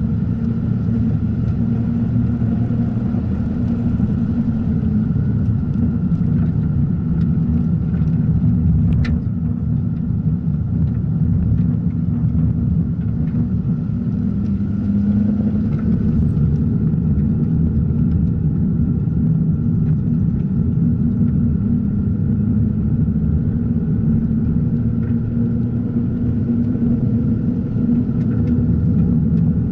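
Mazda RX-8's twin-rotor Renesis rotary engine running hard at track speed, steady and loud, with tyre and road noise.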